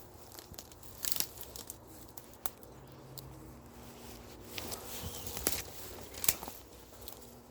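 Brambles and undergrowth rustling and crackling as a person pushes through on foot, with irregular sharp snaps, the loudest about six seconds in.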